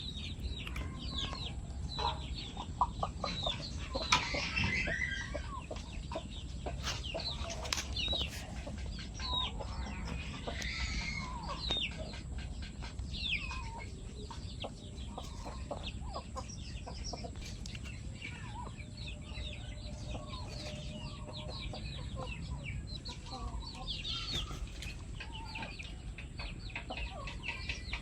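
A flock of chickens clucking and calling: many short, overlapping calls throughout, with a steady low rumble underneath.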